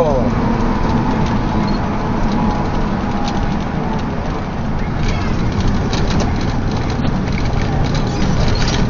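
Steady road and engine noise of a moving vehicle picked up by a dash cam, with faint light clicks in the second half.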